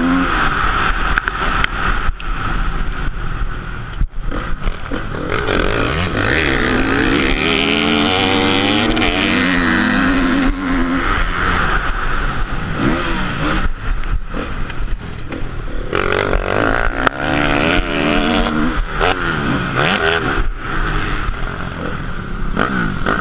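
Motocross bike engine revving hard, its pitch rising and falling again and again as the throttle opens and closes.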